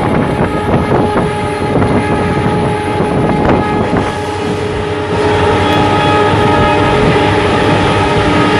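Express train running through at speed, its wheels clattering and knocking over the rails. About five seconds in, a train horn starts and is held steadily.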